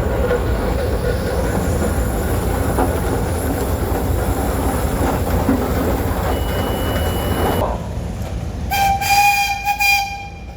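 Steady low rumble of engines running, which cuts off abruptly, followed near the end by one steam whistle blast lasting about a second and a half.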